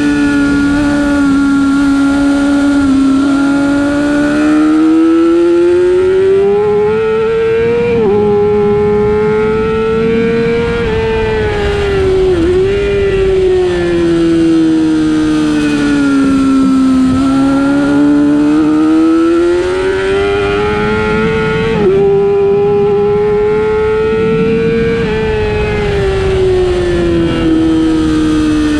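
Middleweight race motorcycle's engine heard onboard at speed, its pitch climbing under throttle with brief sharp dips at gear changes about 8, 12 and 22 seconds in, and sinking as the bike slows for corners around 17 seconds and near the end.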